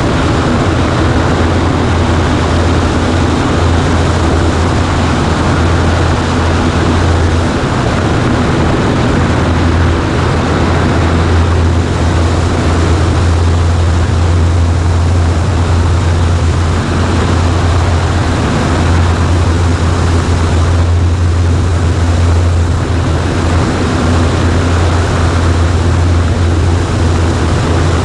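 Light aircraft engine and propeller running steadily in a Cessna 140A, a loud, even drone with a deep hum underneath and a rushing hiss on top.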